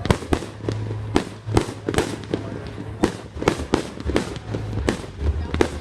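Fireworks exploding: a rapid, irregular run of sharp bangs and cracks, about three a second.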